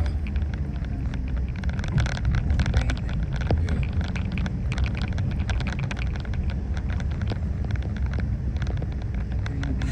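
Steady low rumble of vehicle engines and traffic, with many small clicks and crackles over it.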